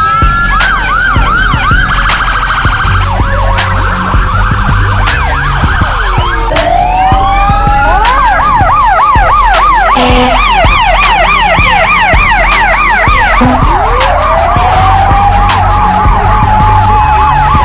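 Several fire trucks' electronic sirens sounding at once, overlapping. Slow wails sweep up and down; from about eight seconds in, a rapid yelp warbles several times a second for a few seconds. Near the end one siren winds up and holds a steady tone.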